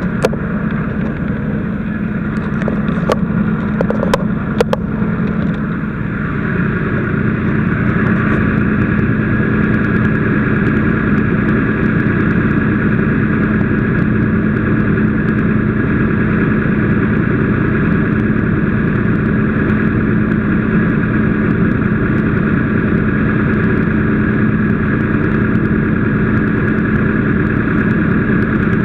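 An engine running steadily with a constant hum, getting louder about seven seconds in. A few sharp clicks sound about three to five seconds in.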